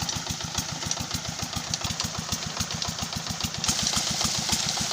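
25 hp Petter diesel engine running steadily while driving a tubewell pump, its exhaust beating in a fast, even rhythm. A higher hiss above the engine grows louder about three and a half seconds in.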